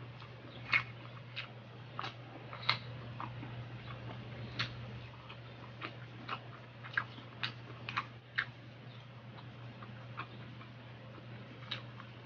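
Close-miked chewing of garlic longganisa sausage and fried rice: irregular wet mouth clicks and smacks, a dozen or so spaced unevenly, over a steady low hum.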